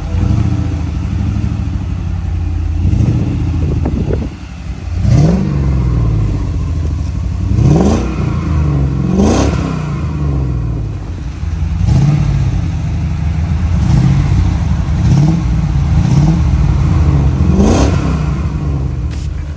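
LS1 V8 in a 1973 Datsun 240Z, running through a custom performance exhaust, idling and then revved in a string of quick throttle blips from about three seconds in. There are about nine revs, each rising and dropping back to idle.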